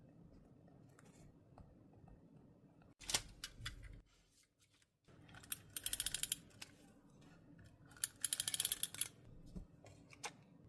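Scissors cutting paper in two short runs of crisp, rapid snips, with a few single clicks before and after.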